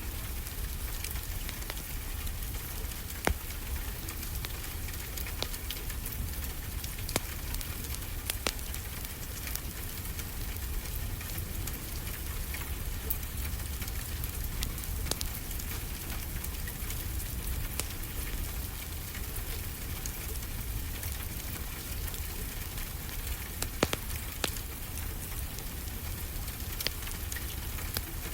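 Wood fire in a fireplace crackling, with irregular sharp pops, a few louder than the rest, over a steady hiss and a continuous low rumble of ocean surf.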